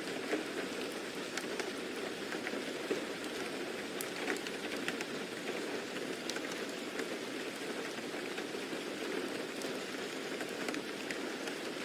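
Steady rain falling, with a dense patter of individual drops ticking over the even hiss.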